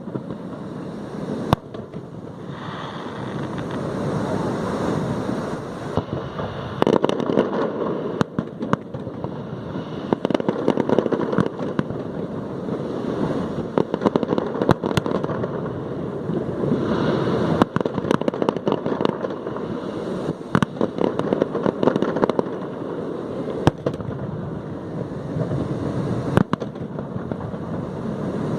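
Fireworks display: a dense, continuous crackle of shell effects that swells and eases in waves, with many sharp bangs scattered through.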